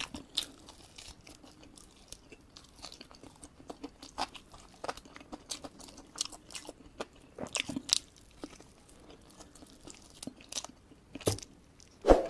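Close-miked eating of fried kampung chicken: biting and chewing, with irregular short crunches. The loudest crunch comes near the end.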